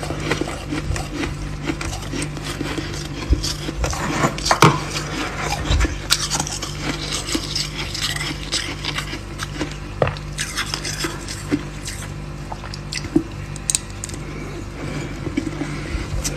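Freezer frost being scraped and crunched: a dense, irregular run of crackles, scrapes and clicks over a steady low hum.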